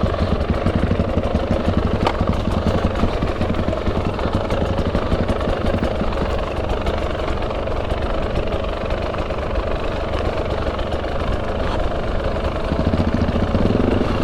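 KTM 300 EXC two-stroke dirt-bike engine running steadily at low revs, its firing pulses slightly uneven, as the bike picks its way along a slippery track.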